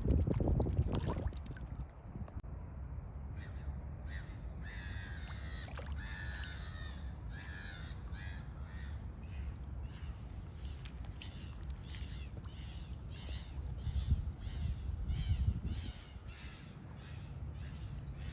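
A bird giving a long series of short, harsh, cawing calls, about two a second, loudest a few seconds in and then fainter, over a low rumble of wind or handling noise.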